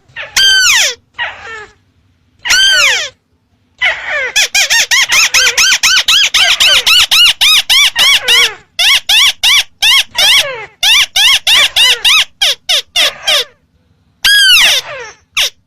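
Recorded lure call of the ruddy-breasted crake (tikusan merah). Loud, rapid runs of short, arching nasal notes, each rising and then falling in pitch, come in bursts of several per second, broken by short pauses.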